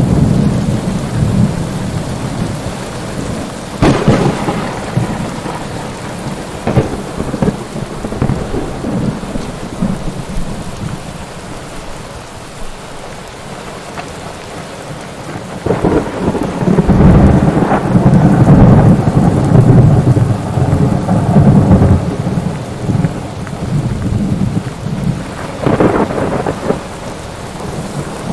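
Thunderstorm: steady heavy rain with thunder, sharp cracks about 4 and 7 seconds in, a long low rumble in the middle of the clip, and another crack near the end.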